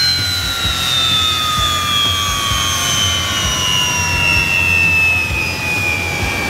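EA-6B Prowler's J52 turbojet engines winding down after shutdown: a high turbine whine falling slowly and steadily in pitch.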